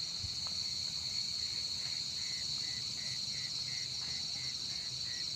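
Night chorus of crickets calling: one high, continuous trill, with a lower chirp pulsing about three to four times a second.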